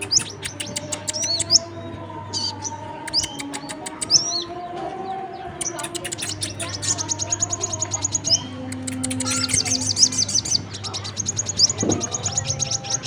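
Lure recording of small songbirds, sogon and brown-throated sunbird (kolibri kelapa) calls mixed together: rapid runs of sharp ticking chirps alternating with high, fast trills, used to call birds to gather.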